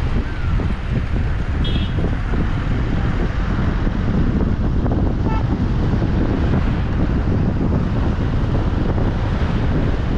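Steady rush of wind buffeting the microphone over the rumble of a car driving along a road.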